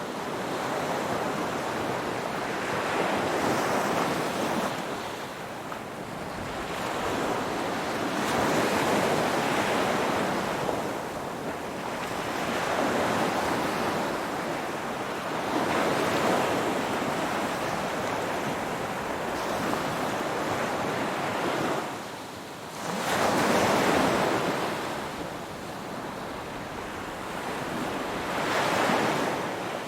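Ocean surf washing in, wave after wave, the rush swelling and easing every few seconds. The loudest surge comes after a short lull about two-thirds of the way through.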